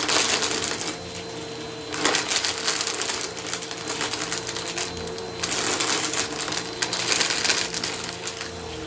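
Bissell vacuum cleaner running over a shag rug, its motor humming steadily while debris crackles and crunches up the intake. The crackling comes in three louder surges, at the start, about two seconds in, and just past the middle.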